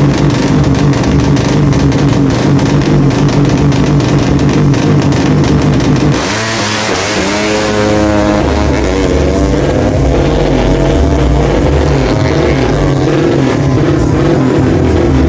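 Tuned 200cc motorcycle engine running at a low, lumpy idle; about six seconds in, its pitch rises briefly over a couple of seconds before it settles back into a steady run.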